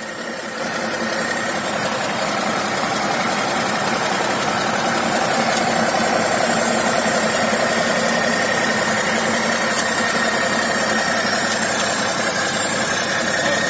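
Radio-controlled construction vehicle running steadily: a dense mechanical drone of its motor and gears that comes up about half a second in and then holds level.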